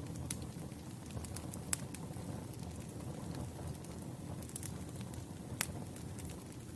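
Wood campfire burning with a steady low rumble, broken by sharp crackles and pops every so often, loudest at about 1.7 and 5.6 seconds in.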